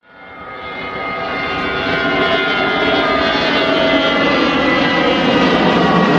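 Cabin noise inside an Airbus A320-232 airliner in flight on approach: a steady rush of airflow and the hum of its IAE V2500 turbofan engines, with several steady tones over it, rising from silence over the first second or so.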